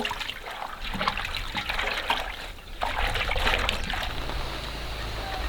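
Water trickling and splashing in uneven spurts, settling into a steadier hiss after about four seconds.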